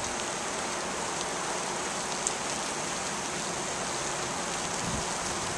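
Steady hiss of rain falling as a monsoon storm begins, with a few sharp drop ticks close by.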